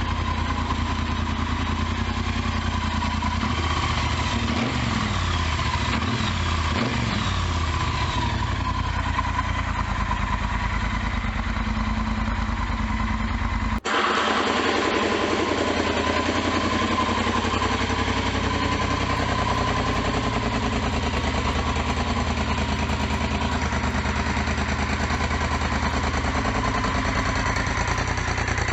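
Triumph Bonneville T120's 1200 cc parallel-twin engine idling steadily through aftermarket slip-on exhausts, with the catalyst removed and an X-pipe fitted. About 14 s in, the sound cuts out for an instant and resumes with a different tone.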